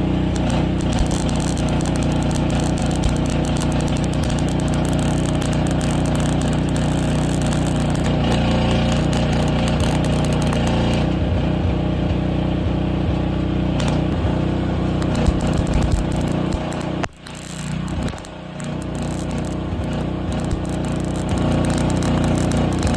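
Electric welding arc crackling steadily over a low hum as a weld is laid on steel bicycle handlebars. The arc stops abruptly about three-quarters of the way through and strikes again a second or so later.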